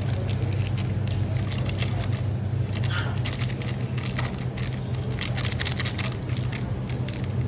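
Steady low hum from shop machinery, under many irregular small crackles, clicks and scrapes of items being handled.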